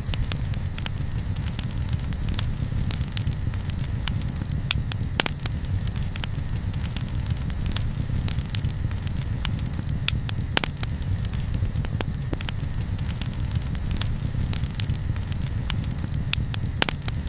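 Campfire crackling: irregular sharp pops and snaps over a steady low rumble. A faint high chirp repeats about once a second throughout.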